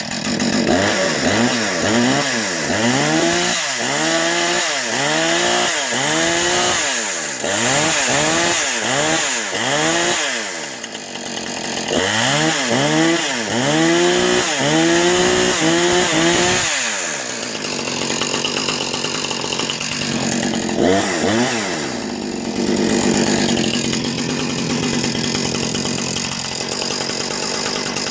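New Husqvarna 460 Rancher two-stroke chainsaw revved in quick repeated throttle blips, each a short rise and fall in pitch. The blips come in two long runs with a short dip between. It then settles to a steadier idle, broken by a couple more blips.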